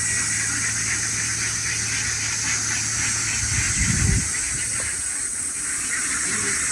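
Outdoor rice-field ambience: a steady high hiss with the faint, continuous chatter of a large duck flock and a low steady hum underneath. A brief low rumble comes about four seconds in.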